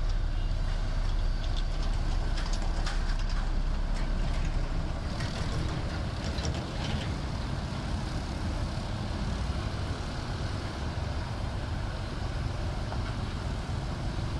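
Heavy diesel construction machinery running with a steady low rumble, with scattered sharp clicks in the first few seconds; it gets a little quieter after about five seconds.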